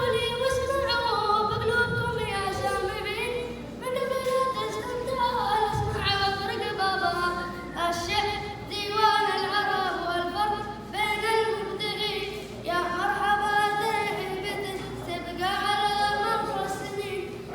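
A schoolboy's solo voice singing an unaccompanied Arabic chant, in long phrases of held, wavering, ornamented notes with short breaths between them.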